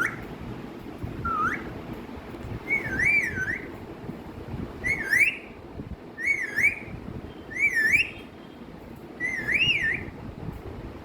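Pet parrot whistling: two short rising whistles, then five longer warbling whistles that wobble up and down in pitch, coming about every one and a half seconds over a low rushing background noise.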